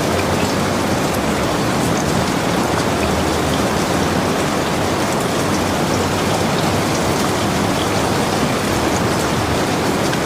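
Steady heavy rain falling, an even hiss with scattered individual drops pattering.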